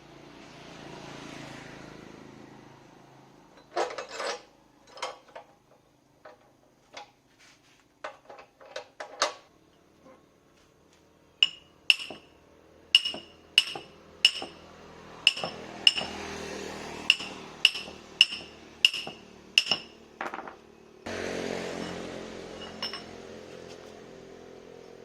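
Hammer-like tool tapping on metal motor parts. Light, irregular taps at first, then a steady run of sharper strikes, about one and a half a second, each with a clear metallic ring. Handling noise is heard at the start and again near the end.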